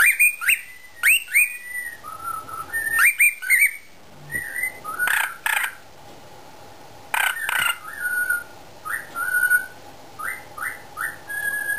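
Cockatiel whistling in short phrases of quick rising and falling notes, some of them sharp upward sweeps, with brief pauses between the phrases.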